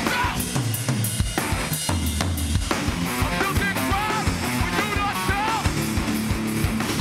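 Hardcore band playing live, loud and steady: drums and low bass notes hit in a sparser stretch for the first few seconds, then the full band comes back in.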